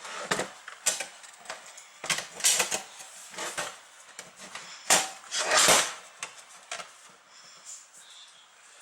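Hands working on a computer power supply and its parts: irregular clicks, taps and scrapes of small hard parts, loudest about two and a half seconds in and again between five and six seconds in.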